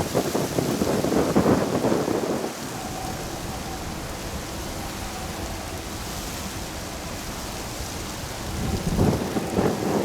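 Strong gusty wind buffeting the microphone with a low, uneven rumble. It is loud at the start, eases to a steadier rush after about two and a half seconds, and gusts up again near the end.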